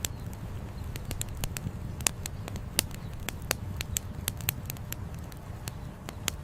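Wood fire crackling, with many sharp irregular pops over a steady low rumble of flowing river water.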